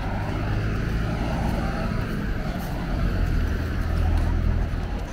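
Road traffic beside a promenade: a motor vehicle's engine running close by with a low hum that swells louder about three seconds in, then eases near the end.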